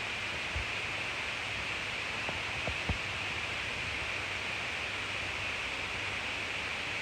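Steady, even hiss with a few faint clicks.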